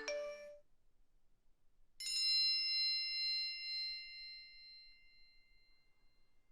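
Phone alert tones: a short chime ending just at the start, then about two seconds in a single bell-like ding that rings on and fades away over about four seconds.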